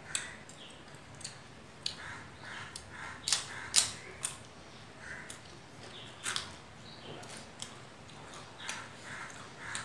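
Potato chips bitten and chewed close to the microphone: a run of sharp, crackling crunches about three to four seconds in, then scattered softer crunches and mouth clicks.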